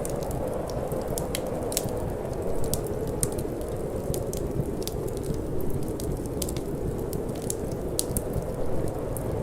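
Wood fire crackling in a fireplace, with many irregular sharp pops and snaps, over a steady low rush of cold wind.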